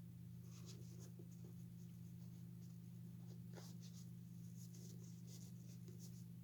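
Faint scratchy rubbing of a damp cloth being wiped over the head of an animatronic figure, in short irregular strokes, over a steady low hum.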